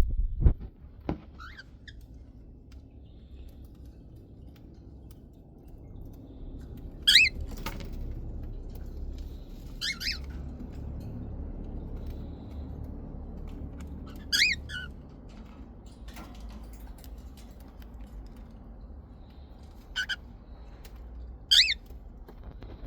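A parrot gives five short, loud squawks a few seconds apart, over a low steady rumble, with a few knocks in the first second.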